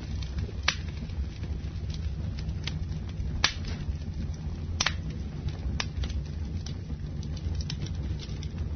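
Campfire burning: a steady low rumble of flame with irregular sharp crackles and pops, a few of them louder snaps.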